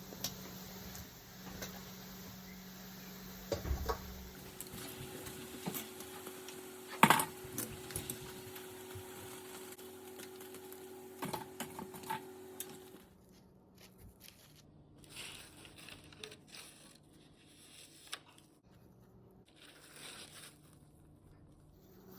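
Scattered small taps, clicks and crinkles of food and kitchen utensils being handled, with one sharp knock about seven seconds in, over a faint steady hum that drops away a little past halfway.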